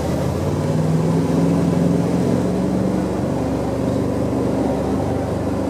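Jet boat engine running under way, gaining a little in pitch and loudness in the first second and then holding steady, over the rush of water and wind.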